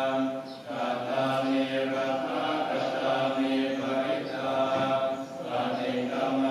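Buddhist chanting: low voices chanting in unison, holding long notes on a steady pitch, with short breaks every second or so.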